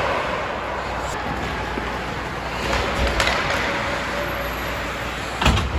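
Steady noise of a team game in play, with a few sharp knocks of play against hard surfaces: a couple about three seconds in and the loudest near the end.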